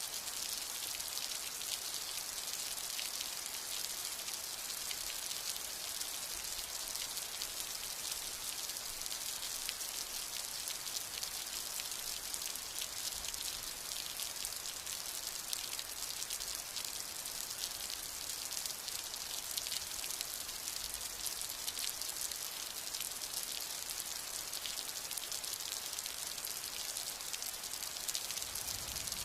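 Steady rain falling, a dense hiss of many small drops with no thunder.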